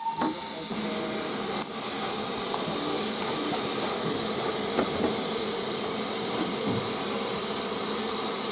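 Steady hiss of steam from a standing steam locomotive, LSWR S15 class No 506, with a few faint knocks; the locomotive is ready to depart.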